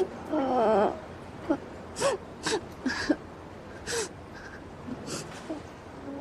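A person crying: a brief wavering sob, then a series of gasping, catching breaths with short whimpers.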